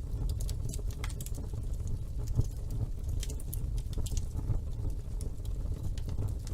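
Wood fire burning in a fireplace: a steady low rumble of flames with irregular sharp crackles and small pops, one louder pop a little past a third of the way in.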